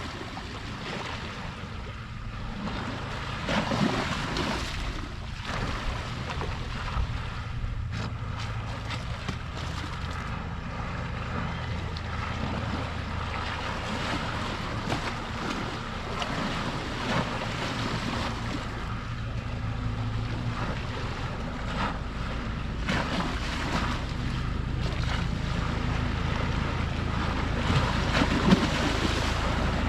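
Small sea waves washing and splashing at the shoreline, with wind buffeting the microphone. Under them runs a low, steady motor hum, growing a little louder near the end.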